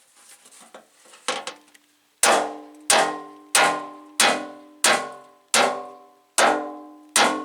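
Sledgehammer blows on a steel truck fender, each strike leaving the metal ringing. One lighter blow comes about a second in, then eight heavy blows at about one and a half a second from two seconds in, beating out a dent.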